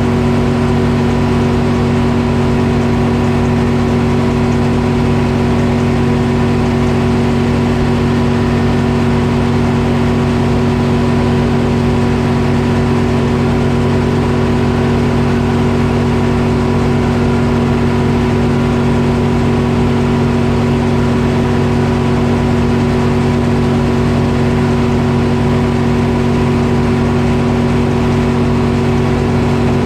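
Detroit Diesel engine of a sawmill power unit running steadily at a constant speed: one unbroken drone of fixed pitch.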